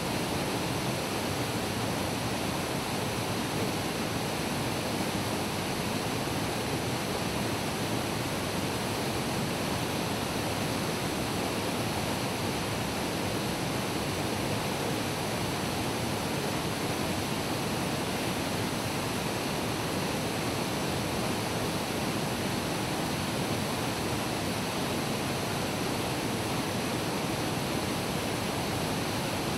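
A waterfall's water pouring and rushing in a steady, unbroken wash of noise.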